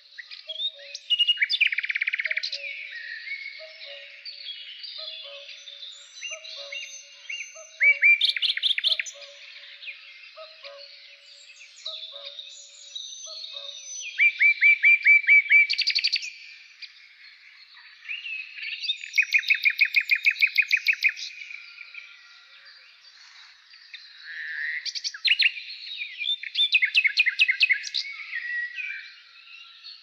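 Woodland birdsong from several birds at once: a loud trilled phrase of rapid repeated notes comes every five or six seconds over a chorus of quieter chirps and calls. A faint low call repeats about once a second through the first half.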